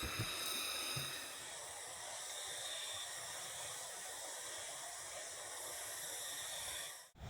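Steady rushing of forest stream water, with cicadas buzzing in high steady tones over it for about the first second. The sound cuts off abruptly near the end.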